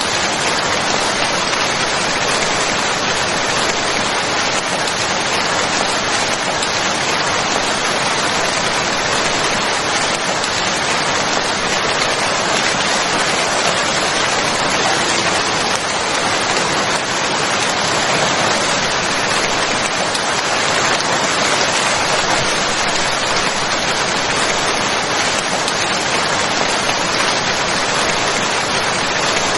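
Steady rain falling: an even hiss of many drops with no separate impacts or breaks.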